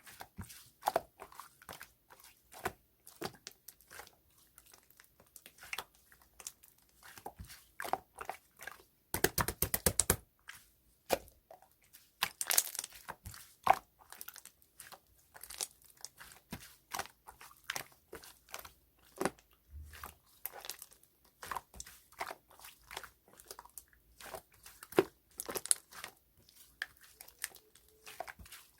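Hands pressing, poking and stretching clear slime: a run of short sticky clicks and pops, with a dense burst of rapid crackling about nine seconds in.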